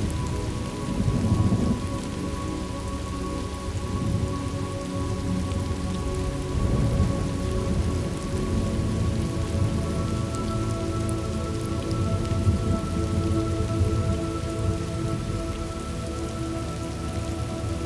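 Steady rain with low rumbles of thunder, under soft held tones of an ambient music pad; a higher tone joins about halfway through.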